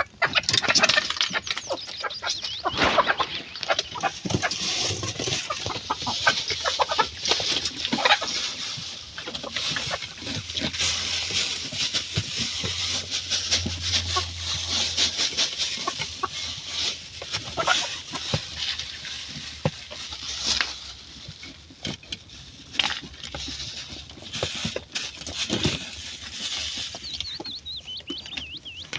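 Chickens clucking, over a dense run of small clicks and crackles.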